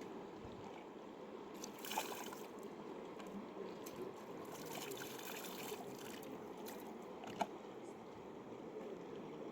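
Flowing river water running steadily, with brief splashing about two seconds in and again around five seconds in, and a single sharp click a couple of seconds before the end.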